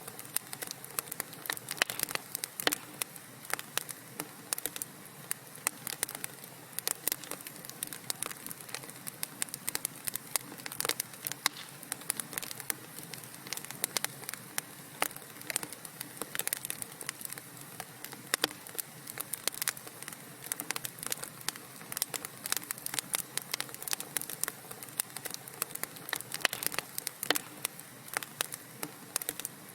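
Wood fire crackling steadily, with dense, irregular pops and snaps over a soft hiss.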